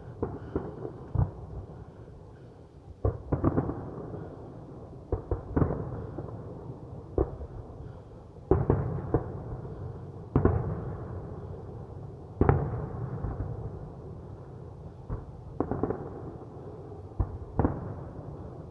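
New Year fireworks going off: about twenty sharp bangs at irregular intervals, some in quick pairs or threes, each trailing off in a rumbling echo.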